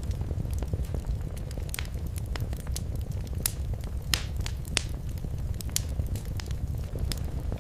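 Wood fire burning in a fireplace: a steady low rumble of flames with irregular sharp crackles and pops, the loudest pops a little past the middle.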